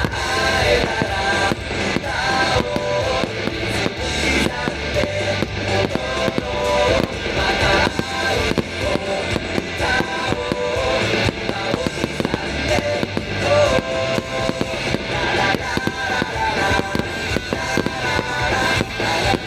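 Fireworks shells bursting in frequent bangs over loud music.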